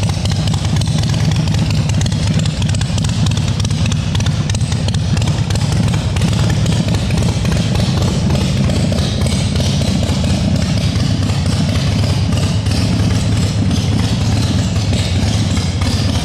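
Freshly rebuilt Harley-Davidson Twin Cam V-twin with an S&S engine and aftermarket performance exhaust running steadily and loud, with a rapid, even firing pulse.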